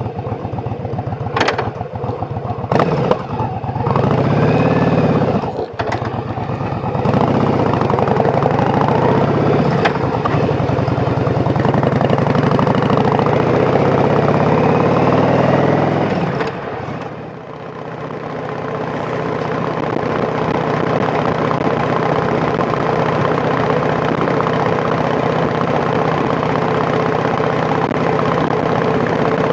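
Yamaha Drag Star 1100's air-cooled V-twin engine running, revved up and down a few times in the first several seconds, then running steadily. Its level drops briefly about seventeen seconds in and builds back up.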